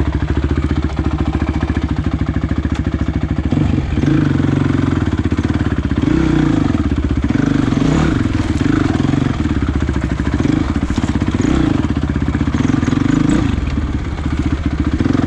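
Dirt bike's single-cylinder engine running at a steady low speed, then revving up and down repeatedly from about four seconds in as the bike is ridden over the trail.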